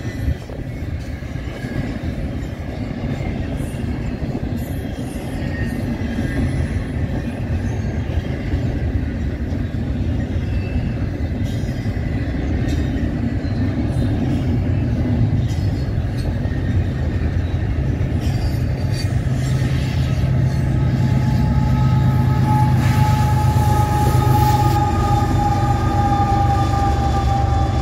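Double-stack intermodal freight cars rolling past on the rails, with a steady rumble and scattered wheel clicks. In the last third the rear distributed-power unit, a CN GE ES44AC diesel-electric locomotive, draws near: its engine drone swells and a high whine comes in, sliding slightly lower in pitch as it passes.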